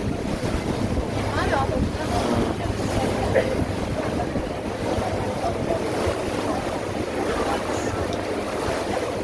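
River cruise boat running steadily under way: a constant low engine hum with water noise, and wind buffeting the microphone.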